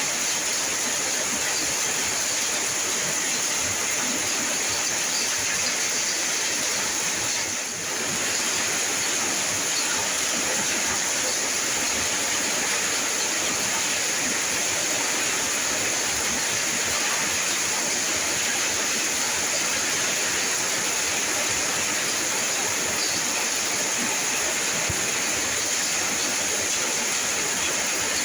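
Steady rain: an even, unbroken hiss of falling water that dips briefly about eight seconds in.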